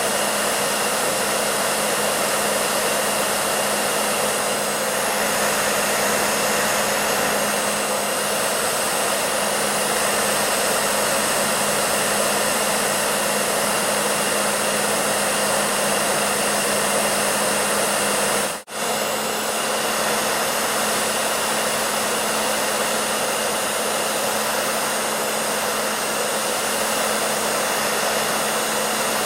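Hair dryer running steadily: a dense, even rush of blown air over a low constant hum. It cuts out for an instant about two-thirds of the way through, then carries on unchanged.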